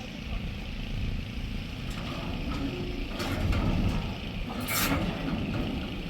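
A delivery truck's engine running steadily with a low rumble, louder for a moment a little past halfway, and one brief sharp hiss about three-quarters of the way through.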